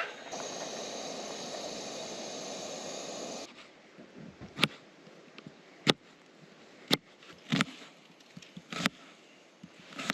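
Taco meat frying, a steady sizzle that stops abruptly after about three and a half seconds. A quieter stretch follows with a handful of sharp, separate clicks and knocks.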